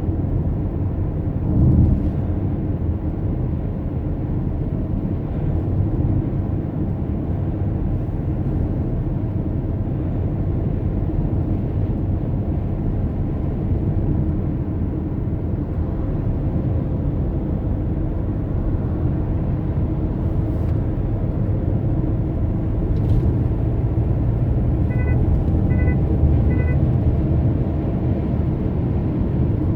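A car driving with a steady low road and engine rumble, with a brief thump about two seconds in. Near the end, three short electronic beeps sound in quick succession.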